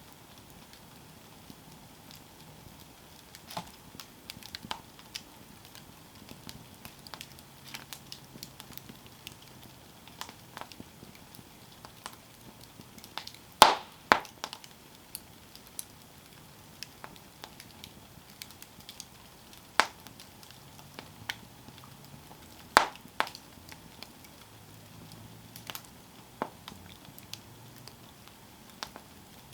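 Wood campfire crackling: irregular sharp pops and snaps over a quiet burning background. The loudest pops come about halfway through and again about three quarters through.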